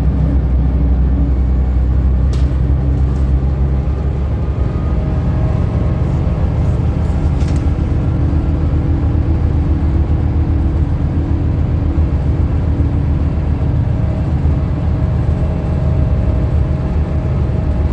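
Scania L94UB bus engine running steadily with a continuous low rumble, its pitch shifting slightly a few seconds in.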